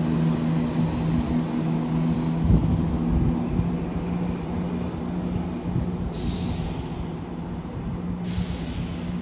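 Class 170 Turbostar diesel multiple unit pulling away, its diesel engines droning steadily and slowly fading. Two short hisses of air come about six and eight seconds in.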